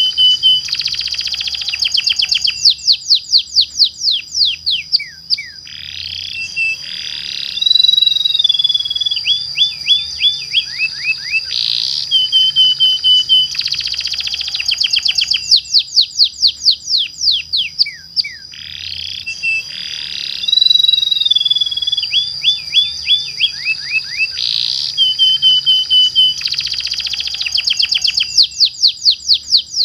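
Domestic canary singing loud, long rolling song: fast trills of rapid falling notes, about ten a second, alternating with warbled and held whistled phrases over a steady high tone. The same song sequence repeats about every 12 seconds.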